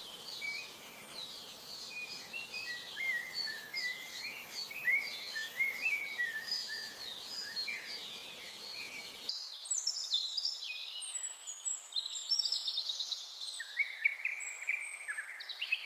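Birds chirping and singing in quick, varied phrases over a low background hiss. About nine seconds in, the hiss drops away suddenly and a higher, busier run of bird calls takes over.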